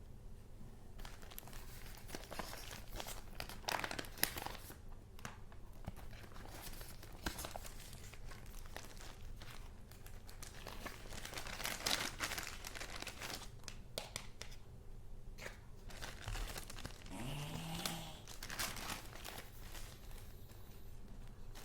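Paper being handled: sheets and handmade junk-journal pieces rustling, crinkling and sliding in irregular bursts.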